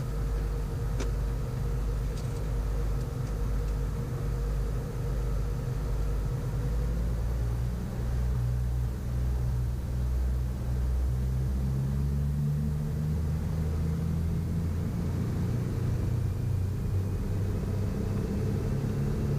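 Piper Navajo's twin piston engines running at high power for the takeoff run, a steady low drone whose pitch steps up about halfway through.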